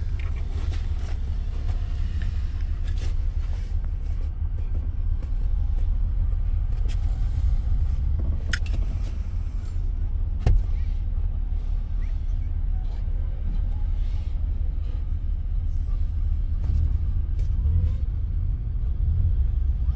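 Low, steady road rumble inside a moving car's cabin, with one sharp knock about halfway through.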